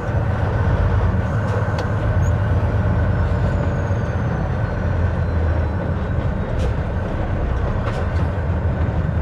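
Semi-truck cab interior noise: the diesel engine and road noise running steadily, mostly low-pitched.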